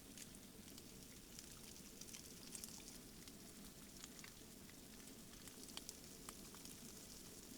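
Faint sizzling of eggs and leftovers frying in a pan, with scattered small crackles.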